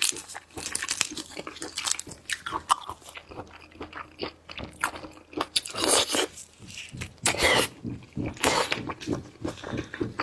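Close-miked eating of seafood: irregular crunching bites and chewing, with louder crunches near the middle and toward the end.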